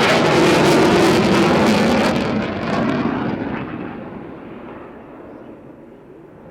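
Panavia Tornado IDS jet passing close and loud with a crackle, its pitch dropping as it goes by, then the twin RB199 turbofans fading into the distance.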